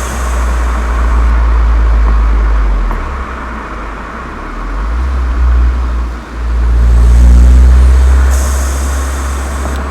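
Volkswagen Golf 7 GTI's turbocharged 2.0-litre four-cylinder running through an aftermarket Cox exhaust with a resonator chamber, heard as a loud, deep exhaust drone. It eases off after about three seconds, dips sharply just past six seconds and then swells again.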